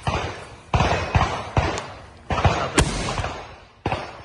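420 noise shell fired from a mortar tube, launching and bursting. Several sharp booms about a second apart, each trailing off in echo.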